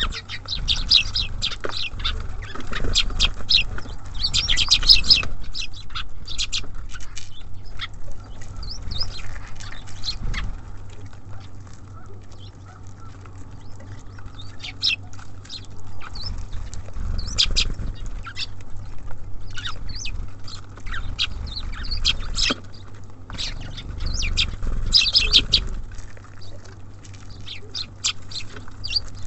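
Small songbirds at a feeder, tits and sparrows, chirping and calling in short clusters, with many sharp taps and pecks and irregular low thuds as they land and flutter.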